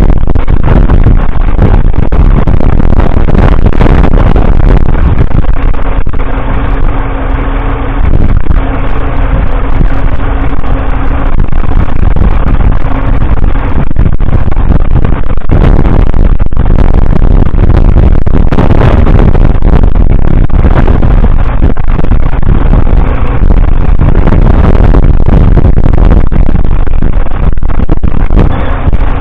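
1947 Fordson Model N's 4.4-litre four-cylinder petrol/TVO engine running loud and steady while pulling a two-furrow trailed plough, with a heavy low rumble throughout. A steady hum stands out for several seconds a little way in.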